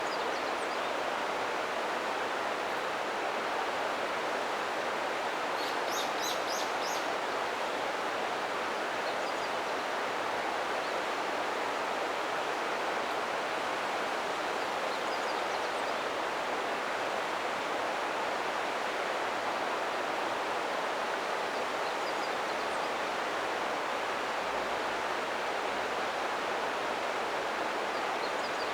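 River water flowing in a steady, even rush. A bird gives a quick run of high chirps about six seconds in, with fainter chirps later.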